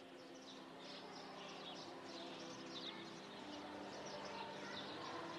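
Small birds chirping and twittering, a quick run of short high calls, over a steady low hum.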